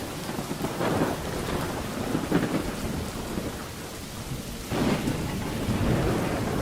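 Steady rain falling, with thunder rumbling throughout; a fresh roll of thunder swells in suddenly about three-quarters of the way through.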